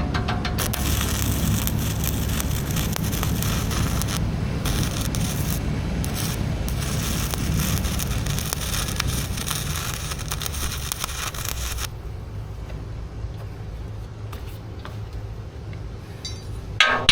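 Welding arc crackling and hissing steadily for about eleven seconds, then stopping, over a low steady hum.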